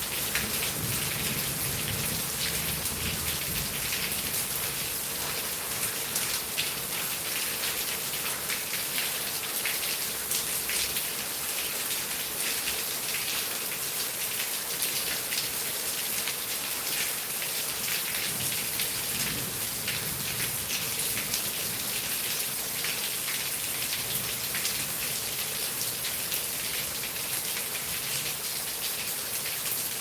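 Heavy rain falling steadily, a dense hiss of drops striking surfaces with many small individual drop patters.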